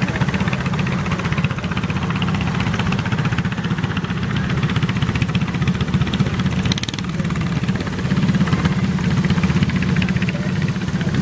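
Small garden tractor engine running steadily with a rapid even pulse, a little louder over the last few seconds.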